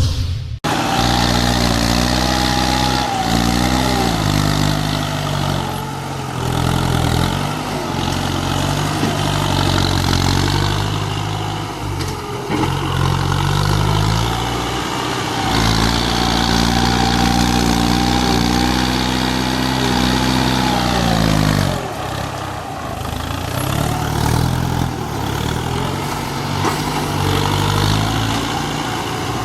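Kubota tractor's diesel engine running, its pitch rising and falling as it is revved up and let back down several times, with one longer high-revving stretch that drops off sharply.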